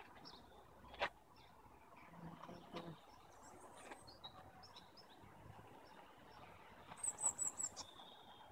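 Faint outdoor hush with scattered high bird chirps and whistles. A sharp click comes about a second in, and a quick run of five high notes about seven seconds in, ending in a brief held whistle.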